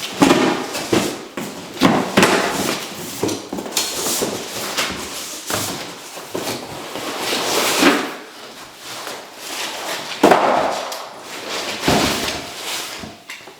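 Irregular knocks, bangs and clatter of objects being handled and set down while a room is cleared out.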